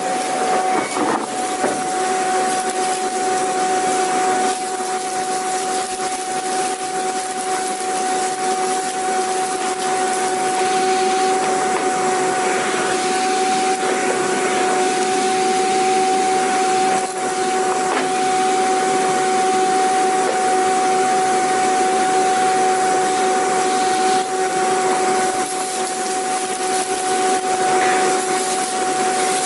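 Vacuum cleaner motor running steadily, a constant rush of air with a steady high whine over it.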